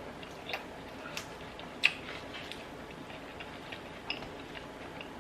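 Eating sounds close to the microphone: scattered soft clicks and smacks of chewing and mouth noises, the sharpest click nearly two seconds in.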